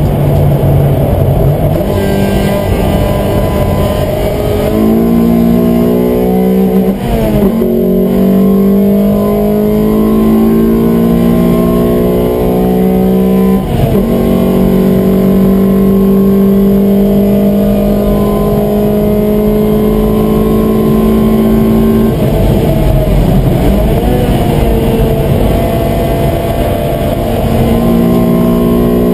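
Honda Accord Type R's 2.2-litre VTEC four-cylinder engine under hard acceleration, heard from inside the cabin. The revs climb steadily through the gears with quick upshifts about seven and fourteen seconds in, then drop off-throttle for a few seconds about two-thirds of the way through before climbing again near the end.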